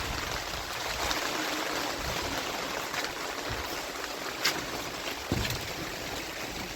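Steady rain with running water, and a few sharp taps of drops standing out about three, four and a half, and five seconds in.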